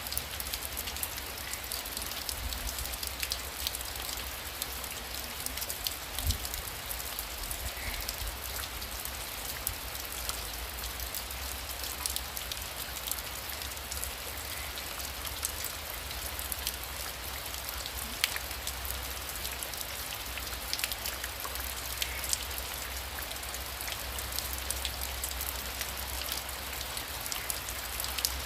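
Heavy rain falling steadily: a dense hiss full of sharp drop ticks on a surface, over a low steady rumble.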